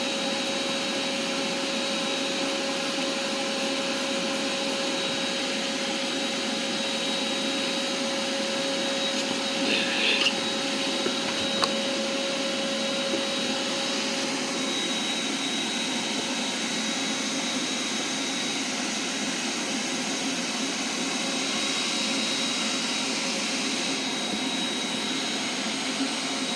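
Shop vac running steadily, its hose fitted to the blowing port and pushed into a tailpipe to pressurise the exhaust and find a leak.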